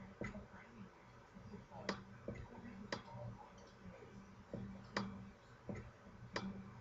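Faint, irregular clicks and taps, roughly one a second, over a low steady hum.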